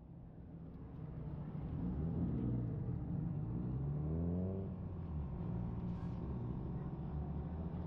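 A car engine running, swelling in over the first couple of seconds, with a rev rising in pitch about four seconds in.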